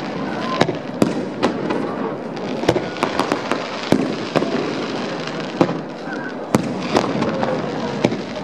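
Fireworks display: aerial shells bursting in about a dozen sharp bangs at irregular intervals, over a continuous background of crackle and noise.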